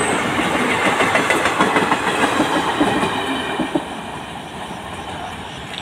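Express train's passenger coaches rushing past at speed, wheels clattering over the rails. The sound drops off about four seconds in as the last coach goes by.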